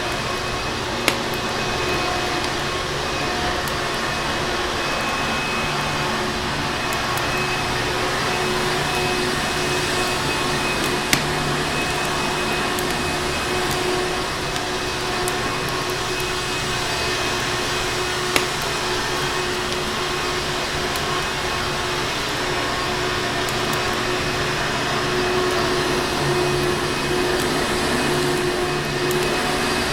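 Vacuum cleaner motor running steadily with a constant whooshing hum, mixed with a fireplace fire; three sharp pops stand out, about a second in, near eleven seconds and near eighteen seconds.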